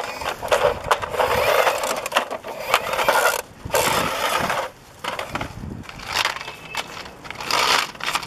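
Toy small wheel loader being pushed and worked by hand: irregular bursts of scraping noise with clicks, pausing briefly about three and a half seconds in and again near five seconds.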